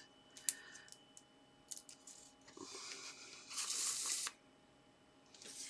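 Paper and card being handled: a light click about half a second in, then a rustling, tearing-like rasp of paper lasting about a second and a half near the middle.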